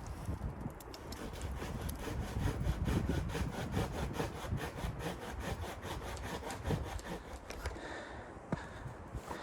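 Hand saw cutting wood in quick, even strokes, which stop about eight seconds in.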